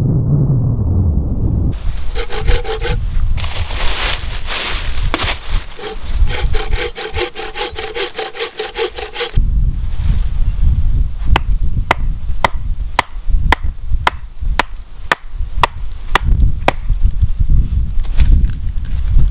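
Wind on the microphone, then a hand saw cutting through wood in quick back-and-forth strokes for several seconds. Then a wooden club beats the back of an axe to split a log: sharp knocks about twice a second over wind rumble.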